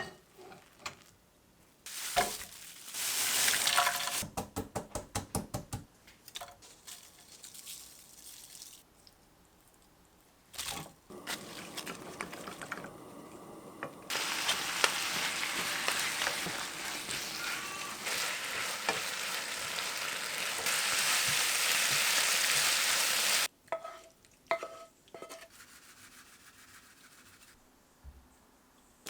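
Food frying in a hot pan: a steady sizzling hiss, broken early on by a run of quick stirring or scraping strokes, about four a second, and ending suddenly about three quarters of the way through, followed by a few light clatters.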